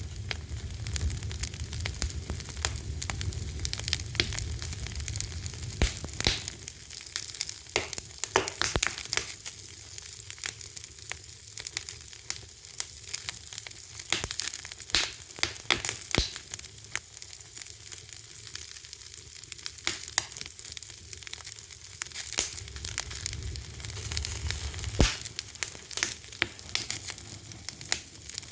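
Fire crackling: frequent sharp pops and snaps over a steady hiss, with a low rumble that comes and goes.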